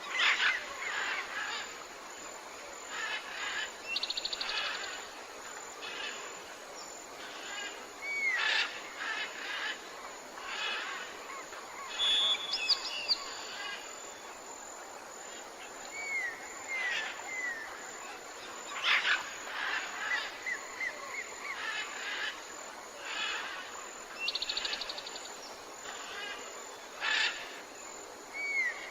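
Several tropical forest birds calling at once: short downward-curving whistles, quick high buzzy trills and scattered chirps, over a steady soft hiss.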